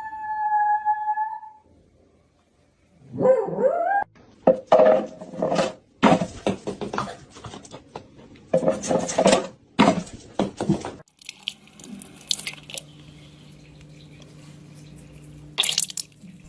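A dog howling in one long pitched note that falls and then holds, then after a short pause a run of short, repeated dog calls. Near the end a steady low hum with a few light clicks.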